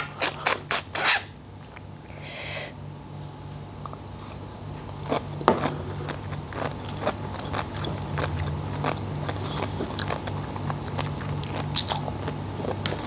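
Close-miked mouth sounds of a person eating seaweed. A handful of sharp, crunchy bites come in the first second or so, followed by soft, wet chewing with occasional small clicks. A steady low hum runs underneath.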